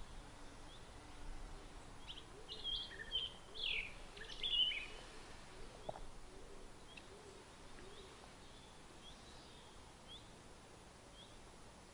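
Songbirds chirping and trilling in short bursts, busiest from about two and a half to five seconds in, then fewer, scattered chirps, all faint.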